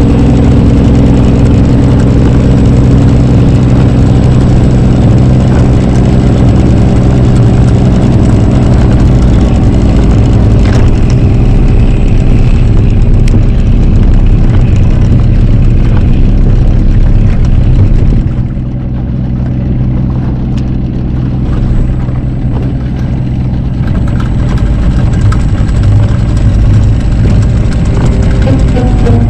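Mercury 9.8 hp outboard motor running steadily; about 18 seconds in it eases back to a lower, quieter speed.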